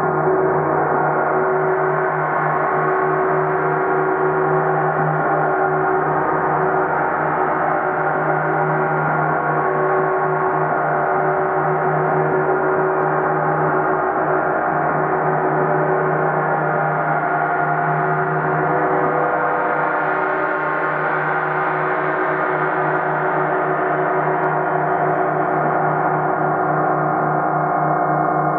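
30-inch (75 cm) Earth Element symphonic gong sounding continuously, a dense wash of shimmering overtones that swells and pulses slowly as it is kept going.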